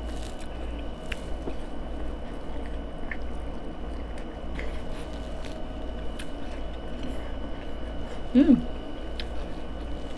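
Close-miked chewing and small mouth clicks from eating corn on the cob over a steady low hum. Once, about eight seconds in, a brief voiced sound.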